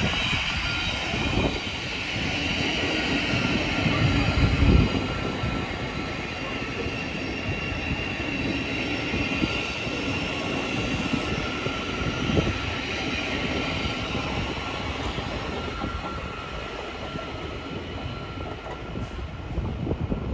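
A train running along the track, a steady rumble with thin high-pitched tones held above it and a few heavier low knocks in the first few seconds.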